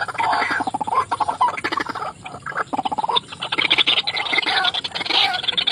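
White-breasted waterhen (ruak-ruak) calling: a run of repeated, rapidly pulsing croaking notes, louder in the last couple of seconds.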